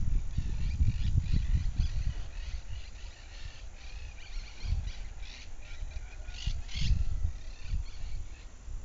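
Small birds chirping and calling in quick short notes, over a low rumble that is strongest in the first few seconds.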